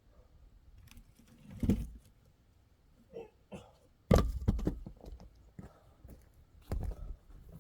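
Hand axe striking firewood being split: three sharp chops roughly two and a half seconds apart, the middle one the loudest, with small knocks of wood in between.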